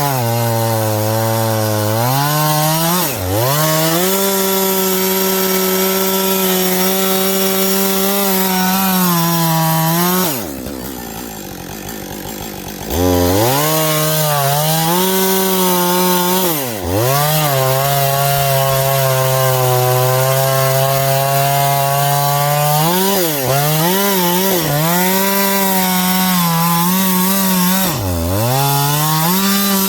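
Husqvarna 562 XP two-stroke chainsaw at high revs cutting wood on a dull chain, its pitch dipping briefly under load several times. About a third of the way in it drops to a lower, quieter speed for a couple of seconds, then revs back up and cuts on.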